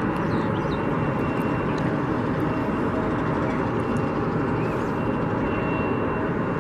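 Steady distant jet aircraft noise across an airport, an even rumble with a faint high whine running through it.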